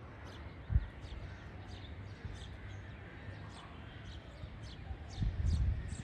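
Small birds chirping again and again in short, high, downward-sliding notes over a faint steady hiss. A sharp low thump comes about a second in, and a louder low rumble near the end.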